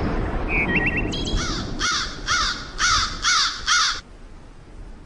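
A crow cawing about six times in quick, even succession, after a low rumble fades out at the start.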